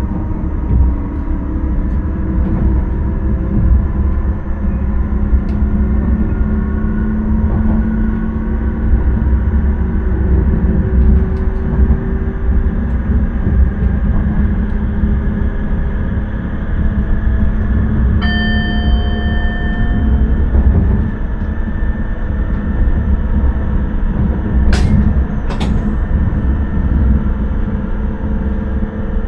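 Electric intercity train running at speed, heard from the driver's cab: a steady rumble of wheels on rail with humming tones. About two-thirds in, a short pitched tone sounds for about two seconds, and two sharp clicks follow a few seconds later.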